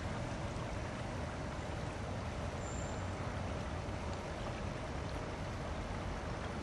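Steady rushing of flowing river water with a low rumble beneath it and a faint steady hum. A single short high peep sounds about two and a half seconds in.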